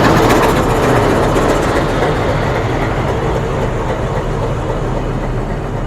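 Metre gauge train running past, a steady rumble of wheels and engine that slowly fades as it moves away.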